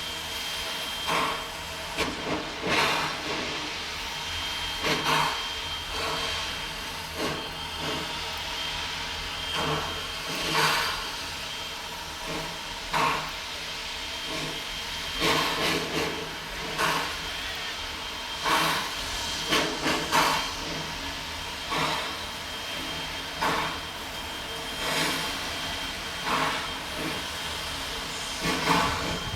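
Doubleheaded steam locomotives, Mason County Logging Co #7 and Quincy Railroad #2, chuffing slowly and unevenly over a steady steam hiss, with an exhaust beat about every second or two. They are straining to pull a heavy string of diesels and freight cars.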